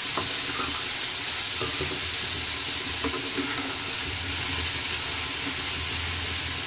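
Steady sizzling hiss of vegetables frying in oil in a kadai, with a few faint clicks.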